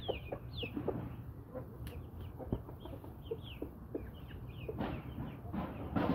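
Brahma chickens clucking in short low calls, mixed with high falling peeps. There are a couple of louder calls near the end.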